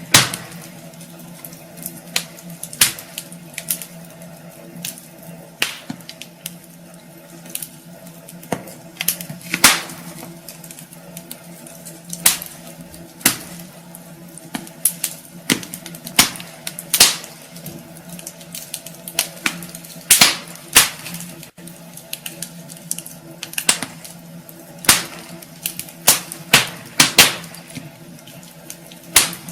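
Wood fire crackling in a fireplace: irregular sharp pops and snaps, some loud, unevenly spaced over a steady low hum.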